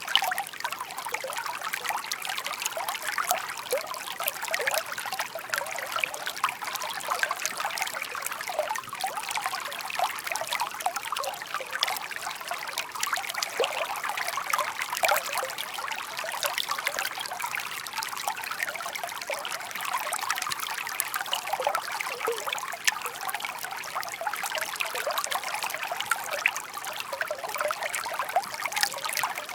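Shallow park brook babbling steadily, water trickling and splashing over stones.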